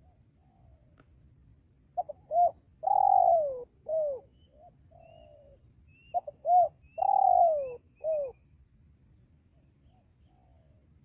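Spotted dove (tekukur) cooing: two phrases of short low coos, each with a long drawn-out note that falls in pitch, the first about two seconds in and the second about six seconds in.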